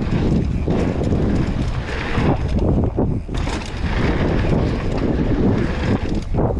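Wind buffeting the camera microphone during a fast mountain-bike descent: a loud, rumbling roar that swells and dips irregularly.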